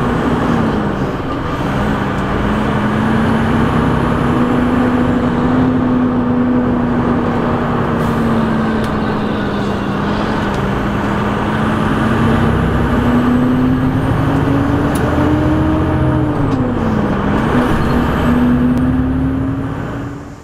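Semi-truck's diesel engine running steadily at road speed with road noise, heard from inside the cab; the engine pitch slowly rises and falls, with a brief dip and recovery near the end.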